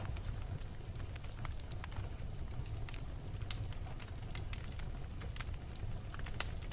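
Wood logs burning in a fireplace, crackling: irregular sharp pops and snaps over a steady low rumble of the flames, with one louder pop near the end.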